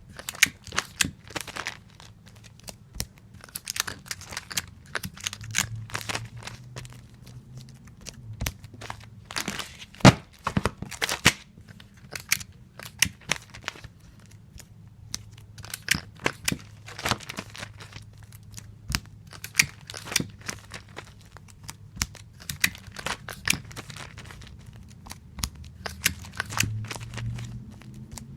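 Tape dispenser in repeated use: adhesive tape pulled off the roll and torn on the cutter, in sharp, irregular clicks and crackles, the loudest about ten seconds in. A faint low hum runs beneath.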